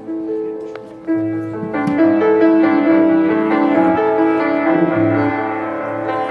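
Piano playing an instrumental passage of a song's accompaniment between sung verses, with held chords under a moving melody, getting louder about a second in.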